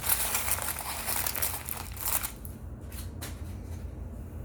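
Baked cornstarch chunks being handled and crushed between fingers on a plate, giving a dense crinkly crackle for about the first two seconds, then a few soft clicks and crumbles.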